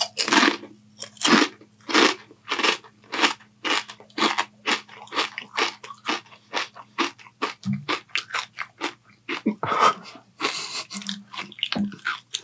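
Close-miked chewing of crunchy potato chips: a steady run of sharp crunches, about two to three a second, over a faint low hum.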